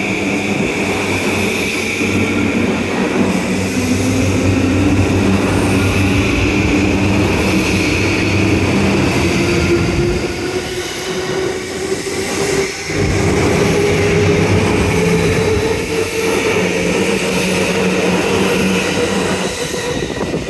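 JR East E235-1000 series electric train pulling away and accelerating past. The whine of its motors climbs steadily in pitch over the steady rumble of its wheels on the rails.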